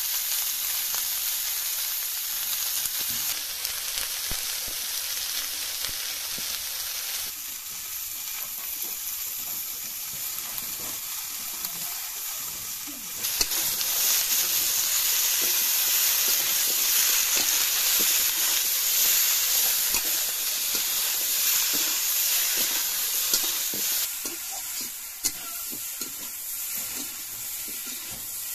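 Radish, flat beans and snakehead fish pieces sizzling in a wok over a wood fire, with a spatula stirring and scraping the pan. The sizzle gets louder about halfway through and eases again near the end, where there is one sharp tap.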